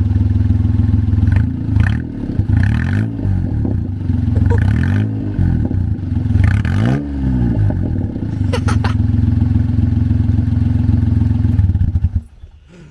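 Daihatsu Hijet kei truck's three-cylinder carbureted engine, breathing through a custom intake and a motorcycle muffler, idling loudly and then blipped through several quick revs. It settles back to a steady idle with a few sharp cracks from the exhaust, and is shut off about a second before the end.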